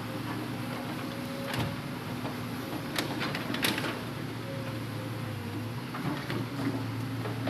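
Hitachi Zaxis 200-5G excavator's diesel engine running steadily, with a few sharp knocks.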